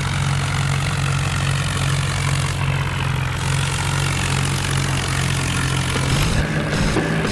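Tractor diesel engine running with a steady, deep drone. About six seconds in, the even note breaks up into a rougher, uneven sound.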